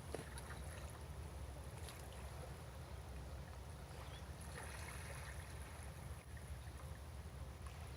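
Calm sea water lapping gently against a breakwater, with small faint splashes and trickles over a steady low rumble.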